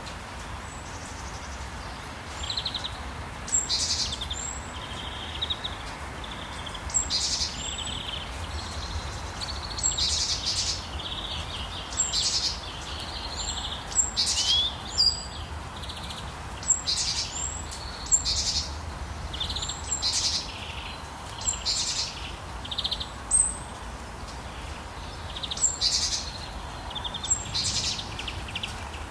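Songbirds chirping and calling in short, repeated phrases, several a second at times, over a steady hiss of rain.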